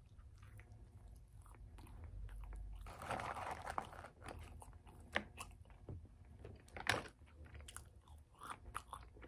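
Close-miked chewing and biting of food, with soft wet clicks. There is a denser stretch of crunching about three seconds in and a few sharper clicks later on.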